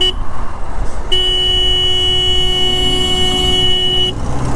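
A vehicle horn sounds a short toot, then one long steady blast of about three seconds, over the wind and road noise of a moving motorcycle.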